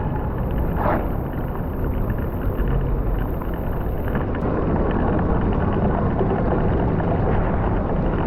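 Steady low rumble of wind buffeting the microphone mixed with rain and tyre noise, as a mountain bike is ridden through a rainstorm.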